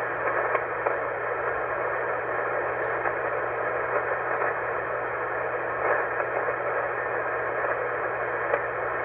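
Shortwave receiver on the 20-meter amateur band putting out steady band noise and static through its narrow voice passband, with no station transmitting, while the net waits for check-ins. A faint low hum runs under the hiss.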